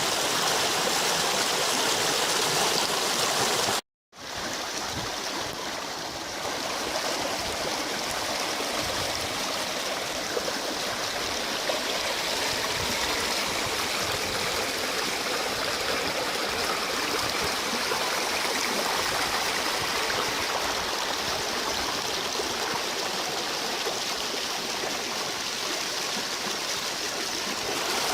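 River water rushing steadily, the wadi running high after heavy rain. The sound cuts out completely for a moment about four seconds in, then comes back.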